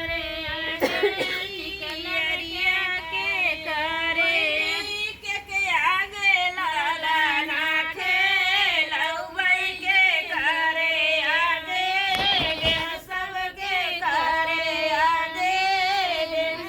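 A woman singing a Chhath Puja devotional folk song solo, in a high voice that holds long, wavering notes phrase after phrase.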